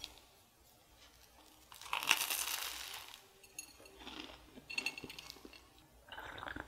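Crunching bites of toasted bread, the loudest lasting about a second near the middle, with a few light clinks.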